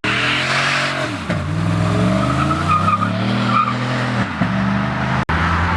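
A car engine revving hard, its pitch climbing and dropping several times, with the tires squealing for a second or two in the middle as the wheels spin.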